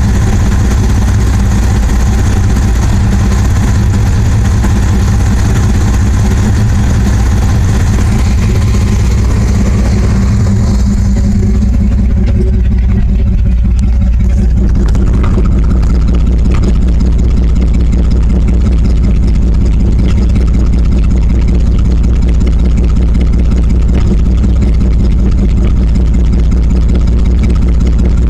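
1996 Dodge Ram 1500 engine idling steadily through a cut exhaust that dumps under the truck just past the catalytic converter, loud and raspy. The phone's microphone is overloaded by it and misses the bass. The hiss on top fades about twelve seconds in.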